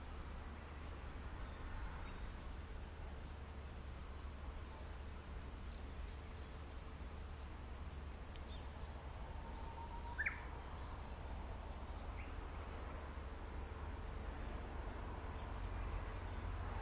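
Faint, scattered short bird chirps, the clearest about ten seconds in, over a steady outdoor hiss and a thin, steady high-pitched drone like an insect.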